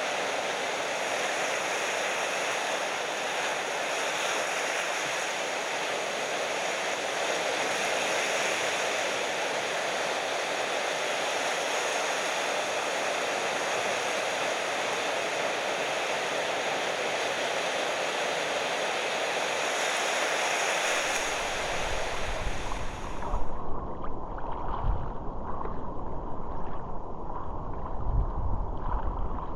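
Steady, even noise of ocean surf breaking. About three quarters of the way through, it gives way to a duller, uneven low rumble.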